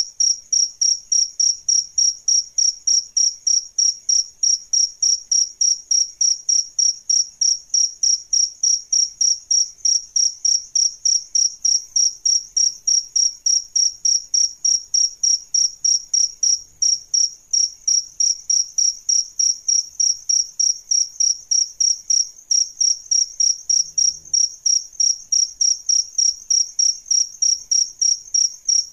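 Cricket chirping in a steady, even rhythm of short high-pitched pulses, about three a second.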